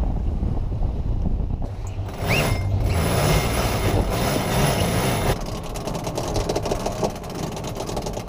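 Wind buffeting the microphone and water rushing along the hull of a sailing yacht beating upwind, with a louder hissing rush for about three seconds in the middle and a short rising squeak about two seconds in.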